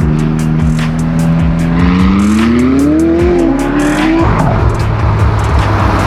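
Car engine accelerating: its pitch rises steadily from about two seconds in, dips briefly, climbs again, then drops away about four seconds in. Background music with a steady beat plays throughout.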